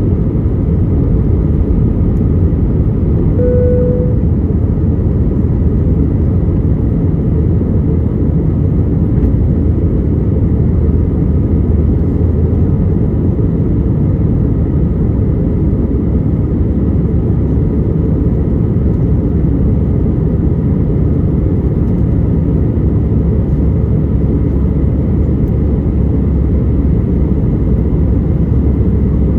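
Steady cabin noise inside an Airbus A320 climbing after takeoff: a deep, even rush of jet engines and airflow. A short beep sounds once about three and a half seconds in.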